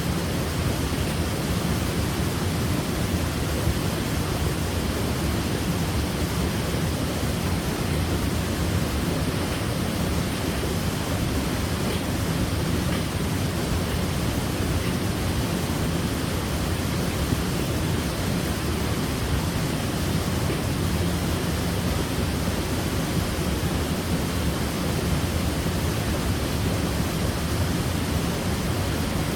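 Waterfall: water falling and splashing in a steady, unbroken rush with a deep low rumble.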